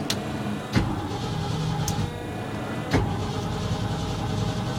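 1986 Ford F600 truck engine just started cold and running on fast idle, its block heated overnight. Two sharp knocks come through about a second in and again about three seconds in.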